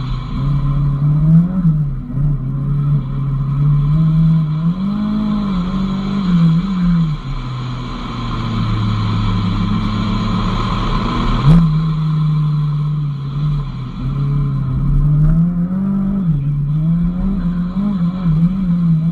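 Renault R5 Turbo's turbocharged four-cylinder engine revving up and down again and again as the car is drifted on a wet skid pad. About eight seconds in the revs settle lower and steadier, then a sharp click comes about three seconds later and the revs jump back up.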